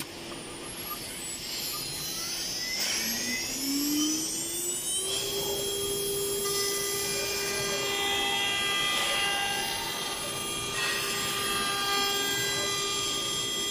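CNC router's automatic-tool-change spindle with tool T6, spinning up and running. Its whine rises in pitch for about two seconds, starting a few seconds in, then holds a steady pitch with several higher tones above it as the machine works.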